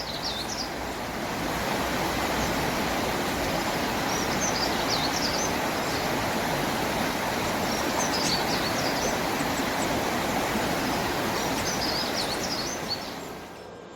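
Outdoor ambience: a steady rushing noise, with a small bird chirping in four short bursts a few seconds apart. The rushing fades away near the end.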